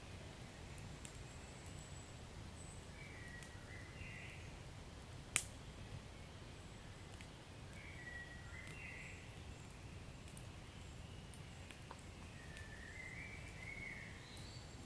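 Wood fire crackling in a fireplace: a low steady rumble with scattered small pops and one sharp, loud pop about five seconds in.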